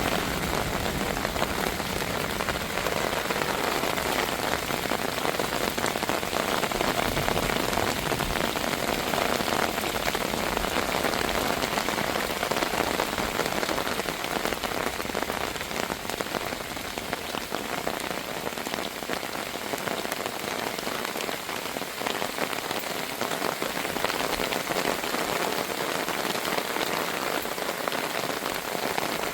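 Heavy rain falling steadily, a dense, even patter of drops striking a surface.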